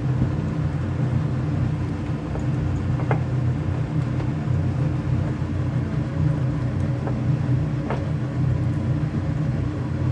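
Steady low motor hum with a faint even hiss over it, and a few light clicks.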